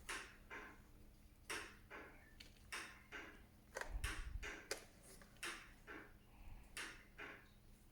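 Unboxing handling noise: irregular short clicks and light rustles as packaging and parts are handled, with a low thud about four seconds in.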